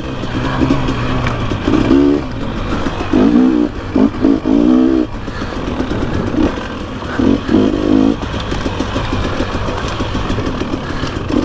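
Dirt bike engine under way on a trail ride, revving up in several short bursts and dropping back between them as the rider works the throttle.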